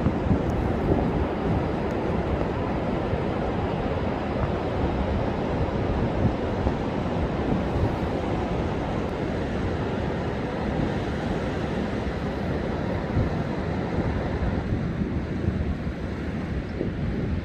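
Storm-driven heavy surf breaking on a sandy beach under a high-wind wave advisory, with strong wind buffeting the microphone: a steady, low, continuous rush with no separate crashes standing out.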